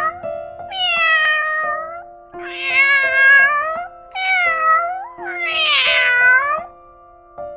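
Domestic cat meowing, about four long drawn-out meows in a row that bend up and down in pitch.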